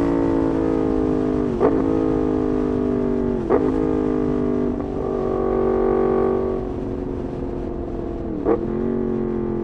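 Yamaha MT-10 SP's crossplane inline-four through an SC-Project exhaust, running at low revs with its note slowly falling. Three short, sharp blips break the note about one and a half, three and a half and eight and a half seconds in.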